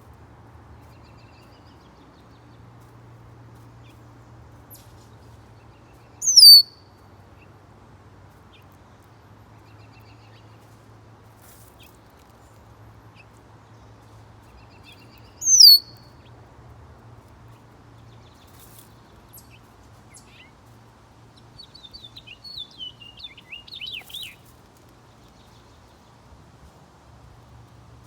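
Songbirds calling: two loud, short calls that slide downward in pitch, about nine seconds apart, then a burst of quick chattering notes near the end.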